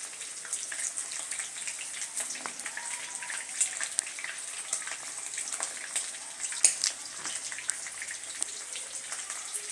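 Food frying in hot oil: a steady sizzle with many small pops and crackles.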